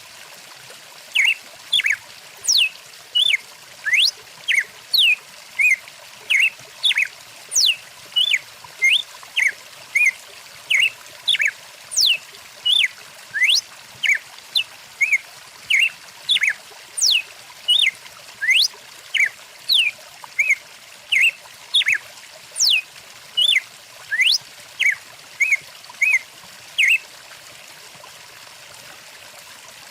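Songbird calling over and over in short, loud chirps, about one or two a second and mixed with quick sweeping whistles, over the steady rush of a flowing stream. The calls stop a few seconds before the end, leaving only the water.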